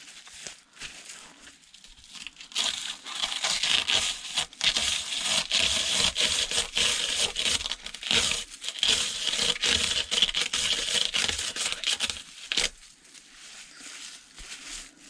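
Paper windings of a copper coil crumpling and tearing as the wire is pulled out of them by hand. A dense crackling starts about two seconds in and stops abruptly near the end, with fainter rustles either side.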